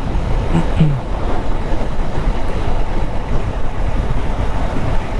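Steady wind rush over the microphone of a motorcycle riding at speed, with the bike's running underneath.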